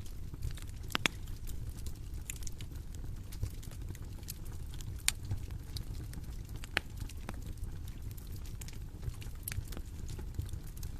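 Bonfire crackling: a steady low rumble of burning with sharp pops at irregular intervals, the loudest about a second in and others near five and seven seconds.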